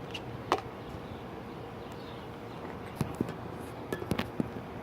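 A few sharp clicks and knocks, one about half a second in and a cluster about three seconds in, over steady outdoor background noise.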